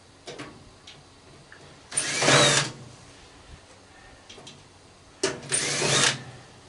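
Power drill with a screwdriver bit backing out screws from a microwave, run in two short bursts of under a second each, its whine rising in pitch as it spins up. A few light clicks come before the first burst.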